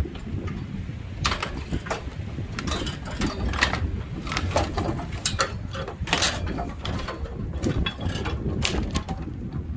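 Irregular metallic clicks and knocks of hand tools working on metal machinery, over a steady low rumble.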